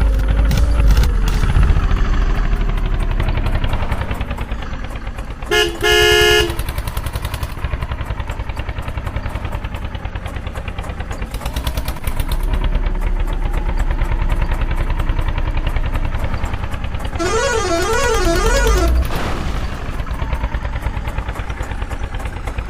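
Tractor diesel engine running under load, with a steady run of firing pulses. A horn gives two short toots about six seconds in, and near the end a warbling musical horn sounds for about two seconds, its pitch swinging up and down.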